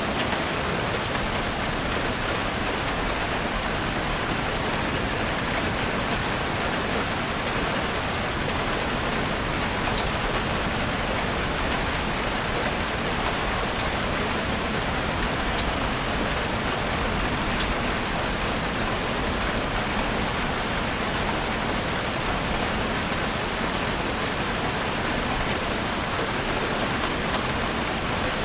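Heavy rain drumming steadily on a roof, with a dense, even patter of drops.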